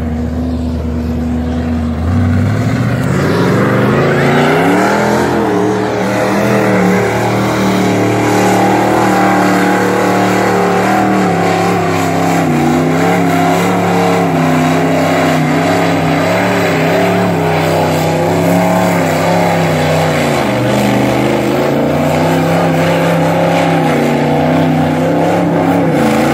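Ford truck's engine revving up about two seconds in and then held at high revs, the pitch wavering up and down, as the truck drives through mud. The revs dip briefly about twenty seconds in, then climb again.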